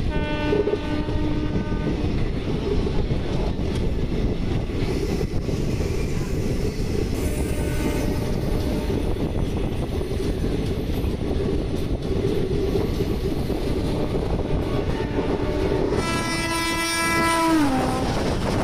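Indian Railways passenger train running, heard from a coach doorway: steady wheel-on-rail noise with clickety-clack. A train horn sounds for about two seconds just after the start. Near the end a second, louder horn sounds as a train passes on the next track, its pitch dropping as it goes by.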